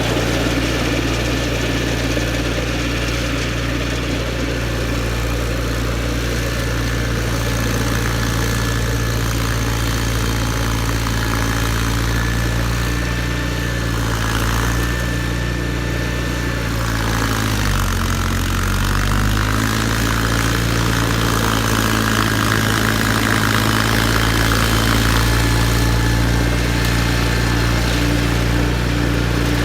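John Deere 318 garden tractor's two-cylinder Onan engine running steadily. Its pitch sags for a moment about eighteen seconds in, then climbs back to speed.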